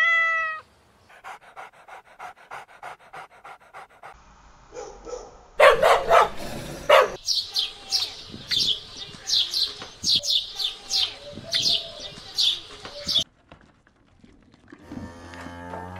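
A sequence of animal calls. A cat gives one short meow, then a dog pants rapidly and barks. A sparrow chirps over and over for about six seconds, and near the end a cow starts to moo.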